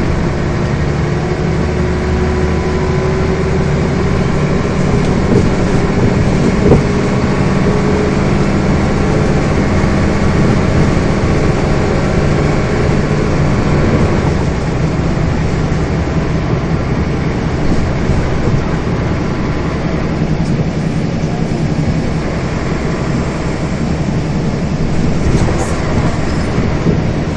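Scania bus's diesel engine and drivetrain running while the bus is under way, with a steady engine hum and road noise, heard from on board. A faint whine rises slowly over the first several seconds, then fades.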